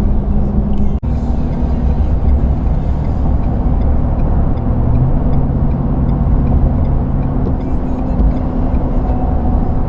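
Steady engine and road rumble inside a moving car, with a brief break about a second in.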